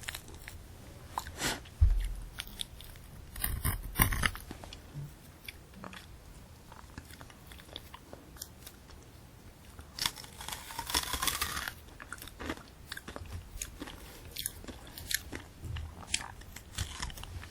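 Close-miked biting and chewing of a candy apple: irregular crisp crunches and cracks of the hard sugar shell and apple flesh, with a dull low thump about two seconds in and a longer hiss-like noise about ten seconds in.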